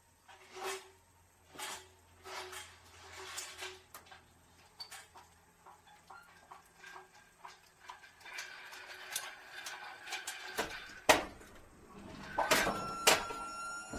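Handling noises: soft swishes and rustles about once a second at first, then scattered clicks, then several loud knocks or bangs near the end.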